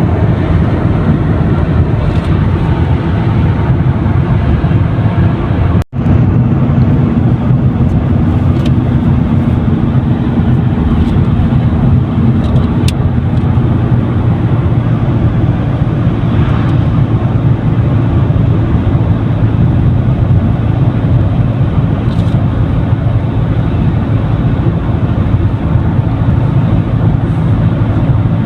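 Car driving: steady engine and road noise, with a brief cut-out about six seconds in.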